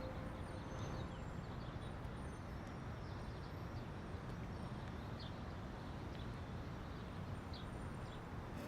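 Faint, steady outdoor background ambience with a low rumble and a few brief, faint high chirps.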